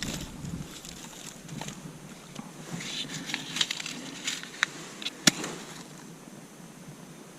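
Light clicks and snaps of dry resinous pine kindling, clustering in the middle, with one sharp snap about five seconds in.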